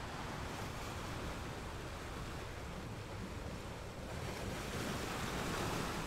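Small, calm ocean waves breaking and washing onto a sandy beach, a steady wash of surf that swells louder over the last couple of seconds as a wave runs up the shore.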